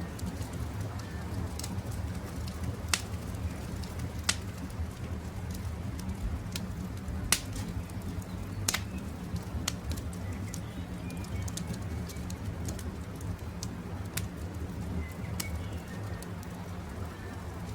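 A wood campfire crackling, with sharp pops every second or two over a steady low rush. Birds call faintly in the background.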